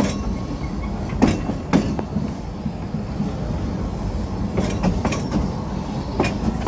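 Narrow-gauge railway carriage running along the track: a steady low rumble of the wheels, with irregular clicks and knocks as they pass over rail joints.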